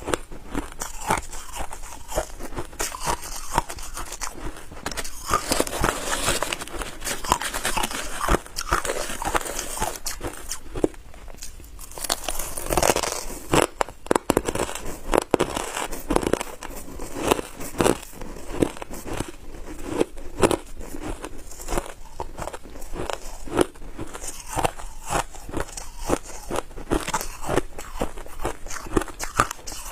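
Ice being bitten and chewed: a continuous run of sharp crunches and cracks.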